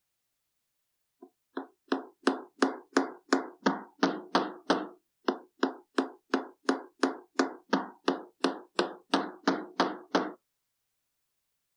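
A steady run of about two dozen sharp knocks or blows, about three a second, starting faintly and building up, with one short gap midway.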